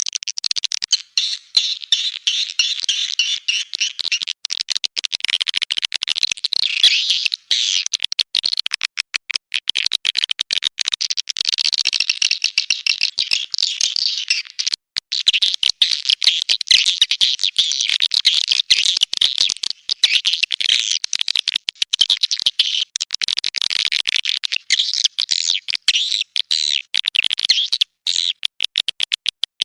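Swiftlets chattering: a dense, continuous run of rapid high twitters and clicks with brief gaps. It is a swiftlet calling sound of the kind played to draw the birds into a nest house.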